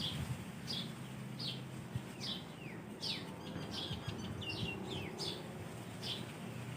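Small birds chirping outdoors: a run of short, high, downward-sliding chirps repeating about once or twice a second, with a few quicker notes in the middle.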